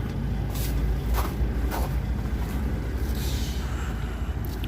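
Truck engine idling steadily, with a few short clicks or knocks in the first two seconds and a brief hiss about three seconds in.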